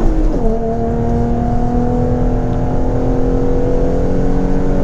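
2011 Ford Mustang's 3.7-litre V6 accelerating at full throttle. Its pitch drops sharply as it shifts up about half a second in, then the revs climb slowly and steadily under load.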